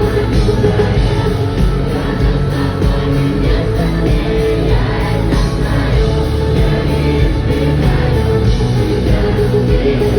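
Live rock band playing loudly through a concert hall's sound system, with singing, recorded on a phone from the audience.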